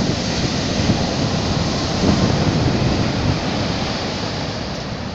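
Stormy sea surf breaking on the shore, a steady loud wash of waves with wind, swelling slightly about two seconds in.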